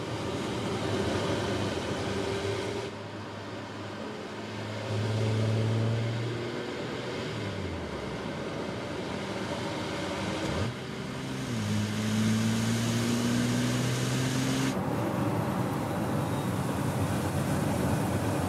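2024 Porsche Cayenne E-Hybrid Coupé's 3.0-litre V6 turbo petrol engine running under way, its note rising and dropping in pitch in segments that change abruptly, with one drop in pitch about eight seconds in and a rising note around twelve to fifteen seconds. The last few seconds hold only a steady rush of road and wind noise.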